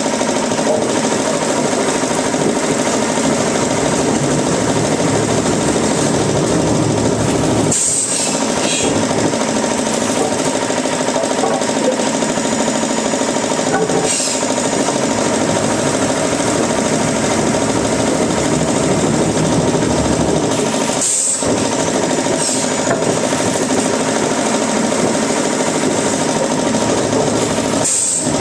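Woodworking machinery running steadily with a dense, continuous mechanical din, broken by brief dips about every seven seconds.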